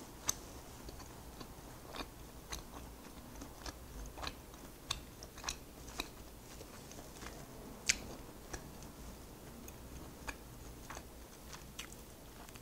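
Close-miked chewing of a mouthful of beef from rice-cake soup: faint, irregular wet mouth clicks, with one sharper click about eight seconds in.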